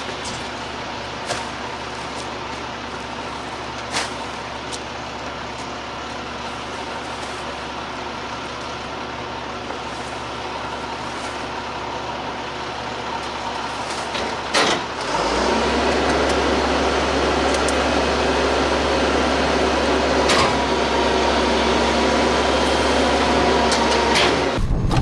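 Garbage truck engine running steadily with a few sharp clicks and knocks. About fifteen seconds in it speeds up and holds a louder, heavier running to the end.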